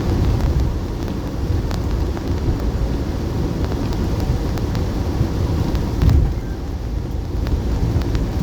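Steady low rumbling noise with scattered faint clicks and a brief louder bump about six seconds in.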